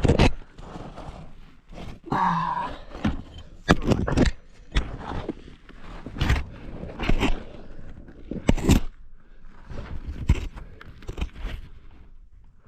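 Irregular knocks and scrapes of rock being broken and shifted during a cave dig, with a short vocal strain about two seconds in.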